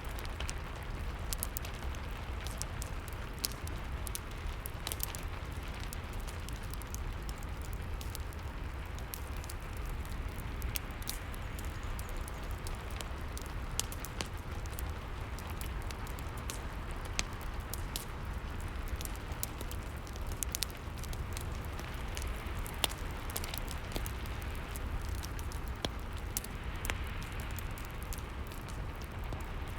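Rain and fireplace ambience: a steady rain hiss with a low rumble, and many scattered sharp crackles and pops from burning wood.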